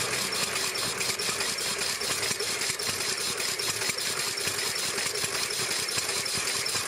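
Two-cylinder gasoline engine of a reproduction 1896 Ford Quadricycle running steadily, its firing strokes coming as a rapid, even beat of several pops a second.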